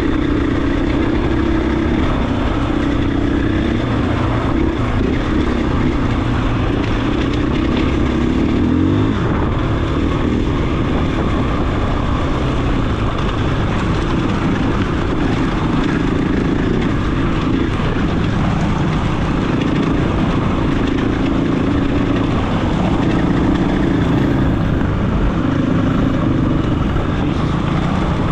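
KTM 500 EXC-F dirt bike's single-cylinder four-stroke engine running continuously while riding a trail, its pitch rising and falling a little with the throttle.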